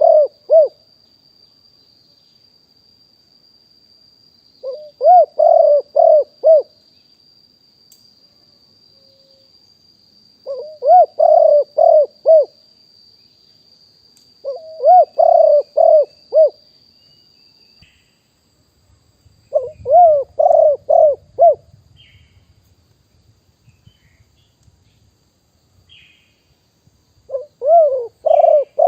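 Spotted dove cooing: repeated phrases of four or five coos, each phrase about two seconds long, coming roughly every five seconds.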